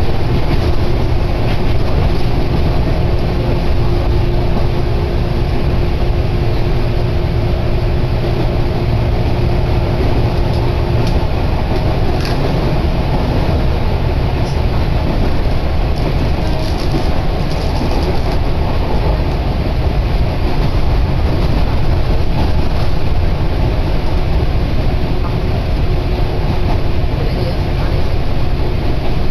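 A Fujikyu train running, heard from inside the passenger car: a steady rumble of wheels on rails, with a steady hum that fades out about eleven seconds in, followed by a few faint clicks.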